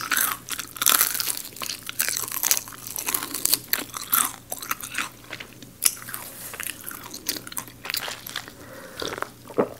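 Crunching and chewing of crispy fried garlic chicken close to the microphone. Quick crackling bites come thickly in the first few seconds, then give way to sparser chewing.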